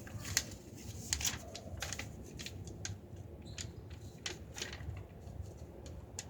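A sheet of paper being folded and creased by hand, giving a string of short, irregular crinkles and taps.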